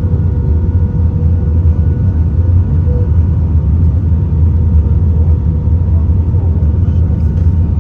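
Steady low rumble inside the cabin of an Airbus A320, from its engines and the airflow, with a few faint steady tones over it.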